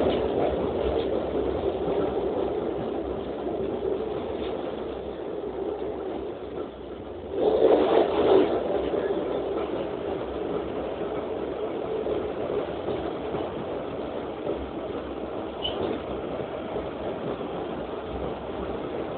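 Train in motion: a steady running rumble, with a louder rush lasting about a second, some seven seconds in.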